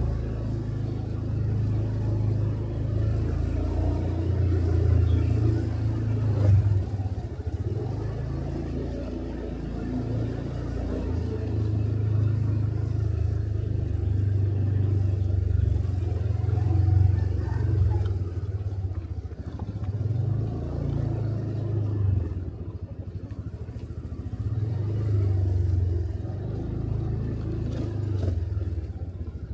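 Motorcycle engine running under way, heard from on the bike, its low rumble swelling and easing several times as the throttle opens and closes, with road noise.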